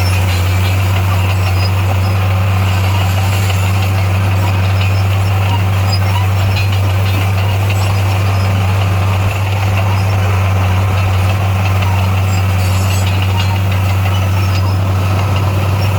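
D58A bulldozer's diesel engine running at a steady, even drone.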